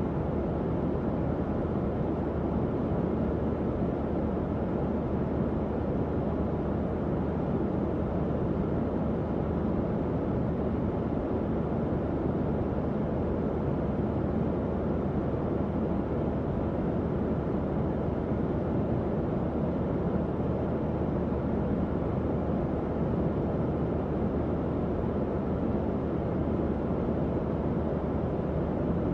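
Tower fan running steadily: an even, low-pitched rush of moving air with a low hum underneath, unchanging throughout.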